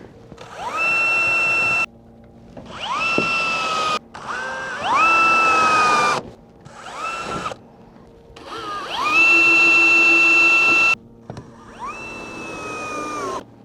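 Power drill run in about six short bursts while working clear corrugated PVC roof panels. Each burst whines up to speed, then holds a steady pitch for one to two seconds.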